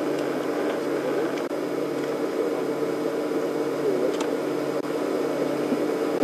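Steady mechanical hum under an even hiss, unchanging throughout.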